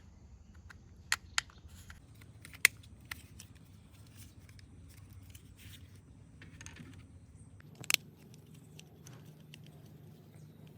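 Plastic toy parts being handled and snapped together: a few sharp small clicks, the loudest about two and a half seconds in and near eight seconds, over light handling noise.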